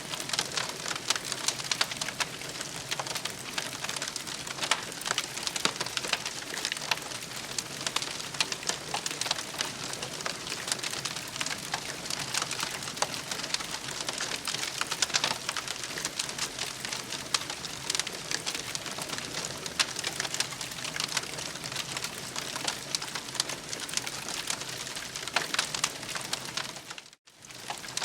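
Campfire crackling: a steady hiss full of many small crackles and pops, cutting out for a moment near the end.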